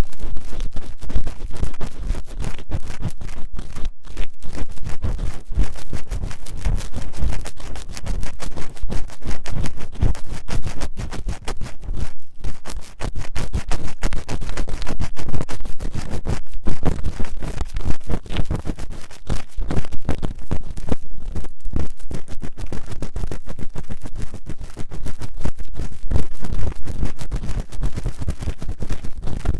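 Fast, vigorous scratching of an ear-cleaning tool in the silicone ear of a 3Dio binaural microphone: a dense, unbroken run of rough strokes and clicks that starts abruptly.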